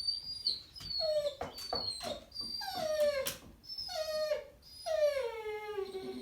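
A dog whining and howling in a series of about four drawn-out cries that each fall in pitch, the last one the longest. A thin high whine comes before them, and a few sharp clicks sound among the cries.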